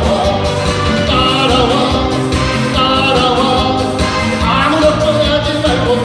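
Trot song performed live: a singer over a recorded backing track with a steady beat.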